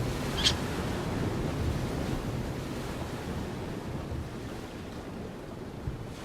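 Low rumbling wind noise buffeting the microphone, with one short, high bird chirp about half a second in.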